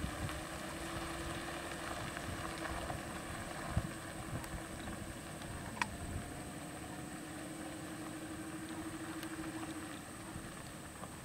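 Car engine idling, a steady low hum that stops near the end, with a couple of brief clicks.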